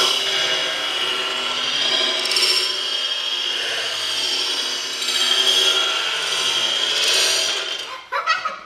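Motorized shaking base of a Jenga Quake game running, its wooden blocks rattling and buzzing steadily against each other, with a few sharp wooden clacks near the end.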